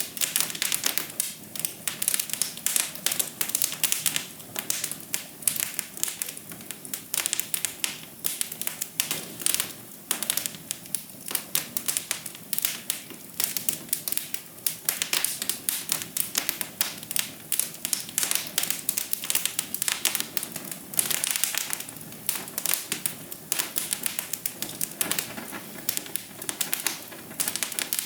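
Wood fire crackling: a dense, irregular run of sharp pops and snaps over a soft steady hiss.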